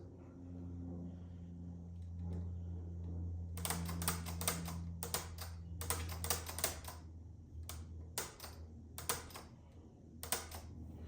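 Hunter Mariner ceiling fan motor giving a steady low hum that weakens about two thirds of the way through, with bursts of rapid clicking from about a third of the way in.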